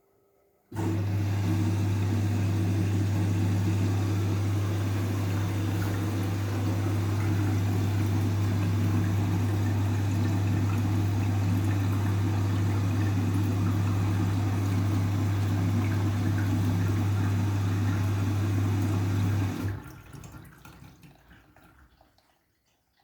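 Washing machine moving water, with a steady electric hum under a rushing of water. It starts abruptly under a second in, runs evenly for about 19 seconds, then cuts off and trails away over a few seconds.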